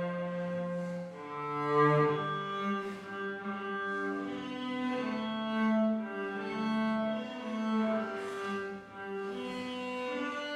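Cello playing a slow hymn melody in long, held bowed notes.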